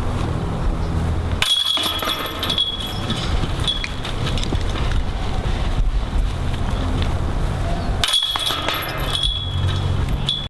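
Wind rumbling on the microphone, with two bursts of metallic jingling, about a second and a half in and again about eight seconds in, typical of discs hitting the chains of a disc golf basket.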